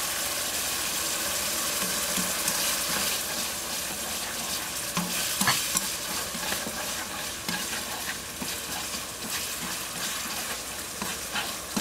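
Tomato sauce sizzling and bubbling in a nonstick wok over high heat after a splash of water, with light scrapes and taps as chopsticks and then a wooden spatula stir it.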